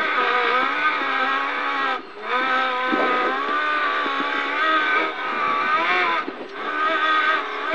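Toyota Hilux rally car's engine heard from inside the cockpit, revs rising and falling as it is driven hard over rough desert track. The engine sound dips sharply twice, about two seconds in and again just after six seconds, with a few short knocks from the bumpy ground.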